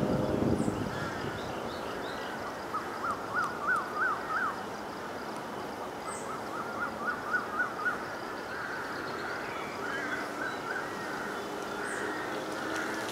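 A bird calling in several short runs of quick, repeated rising-and-falling notes, each run lasting about a second, over steady outdoor background noise.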